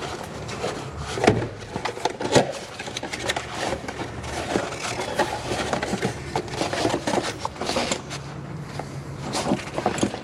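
Rag wiping and scraping the Jeep Wrangler JK's thermostat housing mating surface clean, with irregular small clicks and knocks of metal parts being handled.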